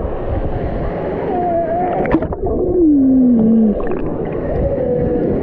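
Muffled rushing water, with a few drawn-out wavering tones over it, one sliding slowly down in pitch about halfway through.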